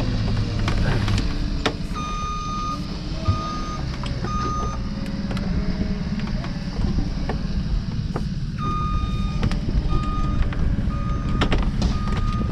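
An electronic warning beeper sounds repeated short beeps at one pitch: three beeps about two seconds in, then a longer run from about eight and a half seconds in. Under the beeps is a steady low engine rumble.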